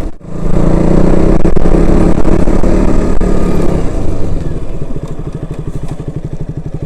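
Motorcycle engine running while riding over a rough, bumpy road. After about four seconds it settles into a quieter, even putter at low revs as the bike slows.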